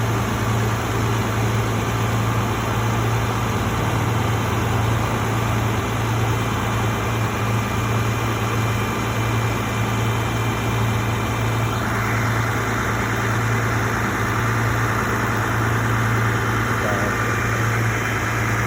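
A vehicle engine idling with a steady low hum; about twelve seconds in, a higher, even whirring noise joins it.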